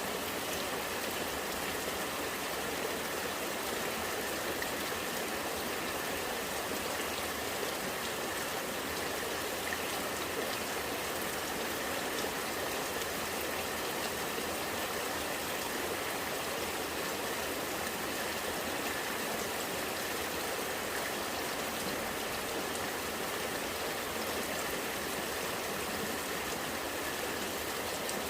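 Rain falling steadily, with rainwater running and gurgling in a steady, even rush dotted with fine drips.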